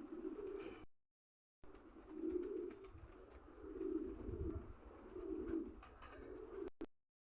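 Pigeons cooing: low, repeated coos about every second and a half. The sound cuts out completely for a moment about a second in and again near the end.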